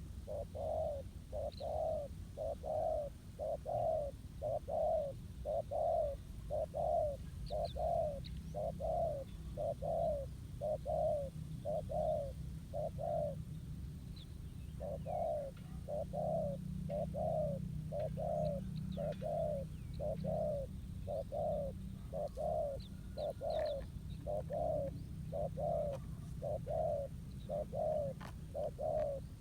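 Spotted dove giving a long run of repeated bowing coos, about one and a half a second, with a short break about halfway through. Faint high chirps of other birds come in now and then.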